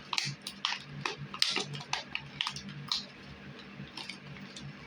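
Hands handling small items and packaging: a run of light clicks, taps and rattles, busiest in the first three seconds and thinning out after.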